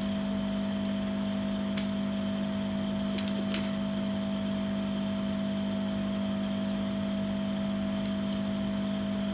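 Steady electrical hum with a few faint light clicks, typical of small tools and phone parts being handled during a screen repair.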